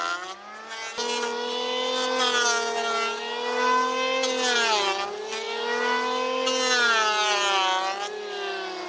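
Electric power-tool motor whining under work on the rusty axe head, its pitch sagging and recovering several times as it is loaded and eased off.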